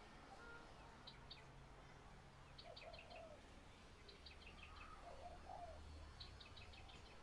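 Faint spotted dove cooing, two short low coos a couple of seconds apart, under clusters of quick high chirps from a small bird repeated every second or two.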